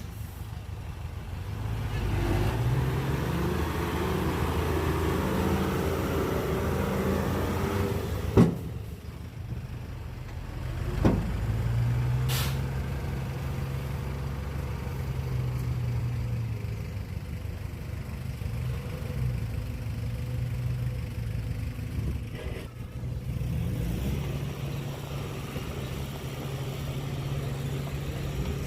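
Heavy diesel engines of earthmoving machines working, revving up and easing off twice, with two sharp knocks about a third of the way in.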